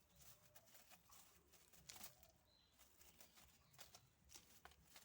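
Near silence, with faint, scattered light taps and scuffles of kittens moving about at play.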